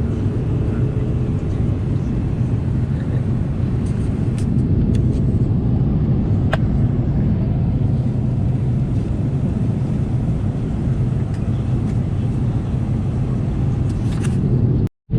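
Airbus A330-300 cabin noise in flight: the steady low rumble of the engines and airflow heard from an economy seat, with a faint click about six and a half seconds in. The sound cuts out briefly just before the end.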